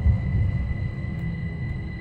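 Rhaetian Railway passenger train running, heard from inside the carriage: a steady low wheel-on-rail rumble with a thin, constant high whine above it, and a thump just after the start.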